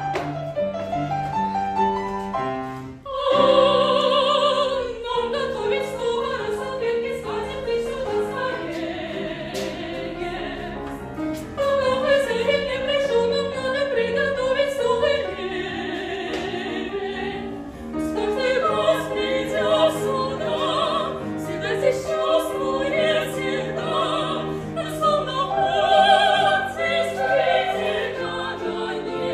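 Operetta singing: a classically trained voice with strong vibrato over piano accompaniment, swelling into a loud held high note about three seconds in.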